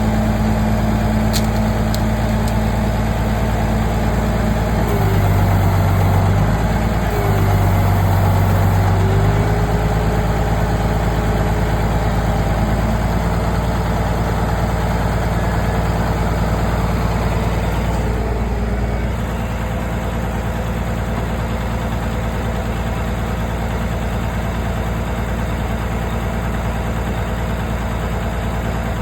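Tractor engine running steadily. Its note deepens and bends twice, about five and eight seconds in, and settles slightly quieter from about two-thirds of the way through.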